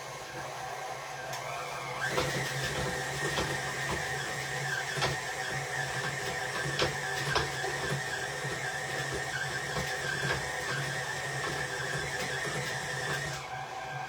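Electric stand mixer running, its beater attachment mixing a wet dough of milk, butter and vanilla; the motor whine gets louder about two seconds in and drops back near the end, with a few sharp knocks along the way.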